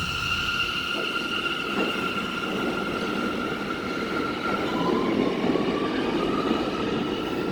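R179 subway train moving through the station: its electric propulsion gives a steady high whine, and about halfway through a second tone rises in pitch as the train speeds up. Wheel rumble on the rails builds beneath it.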